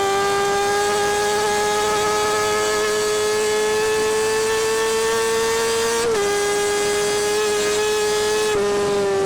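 2017 Kawasaki Ninja ZX-6R's inline-four engine running at high revs under way, its exhaust note a high steady pitch that climbs slowly. The pitch drops sharply about six seconds in, as at a quick upshift, and dips again briefly near the end.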